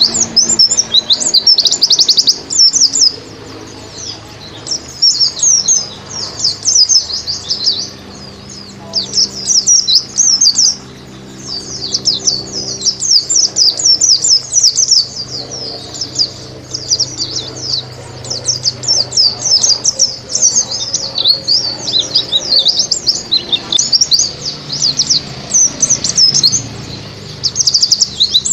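White-eye (pleci, Zosterops) singing a fast, high twittering song in phrases of a few seconds separated by short pauses. A faint steady low hum runs underneath.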